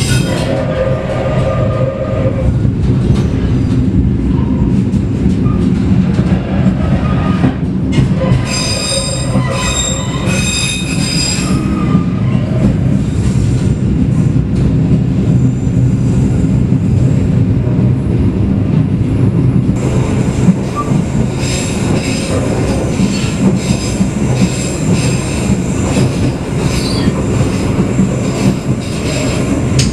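Train rolling on the rails with a steady rumble, its wheels squealing against the rails about eight seconds in for a few seconds and again from about twenty seconds in.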